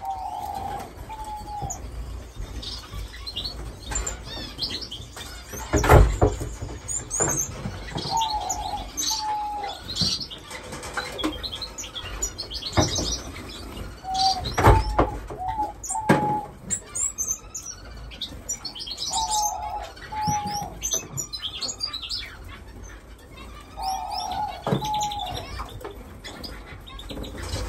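Caged finches chirping and twittering continuously, with a lower two-part call repeated about every five seconds. Two loud knocks come about six and fifteen seconds in.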